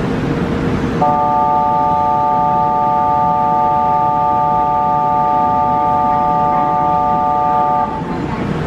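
Station platform electronic signal tone: a steady chord of several pitches that comes on suddenly about a second in, holds for about seven seconds and cuts off near the end, over station rumble.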